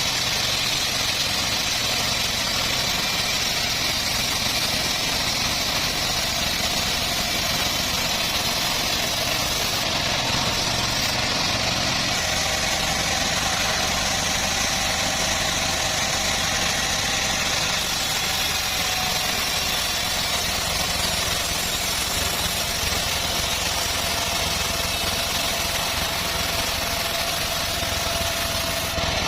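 Homemade engine-driven bandsaw sawmill running steadily, a constant engine drone with a faint steady whine over it and no breaks.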